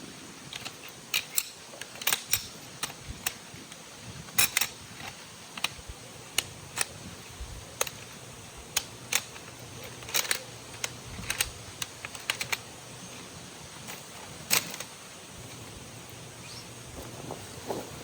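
Irregular sharp clicks and light taps of small hard objects being handled, a few of them louder, over a faint steady background.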